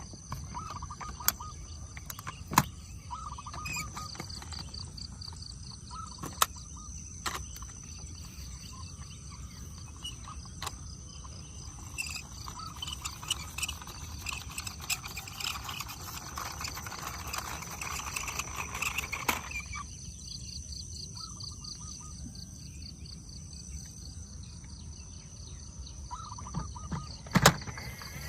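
Steady high chirring of insects, with occasional sharp clicks and knocks, the loudest a little past two seconds in and near the end.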